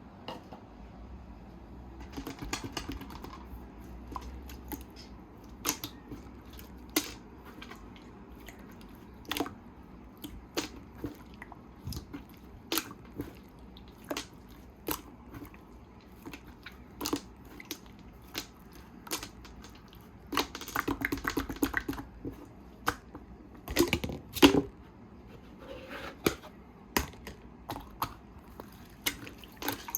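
Small heart-shaped decoration parts handled by hand: irregular sharp clicks and taps, about one a second. A busier stretch of rattling taps comes about two-thirds through, followed by the loudest clicks.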